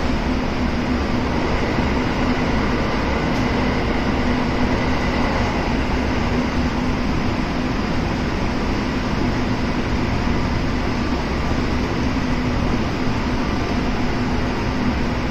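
Kintetsu 7000 series electric train running at a steady speed, heard from inside the car: a continuous rumble of wheels and running gear with a steady hum through it.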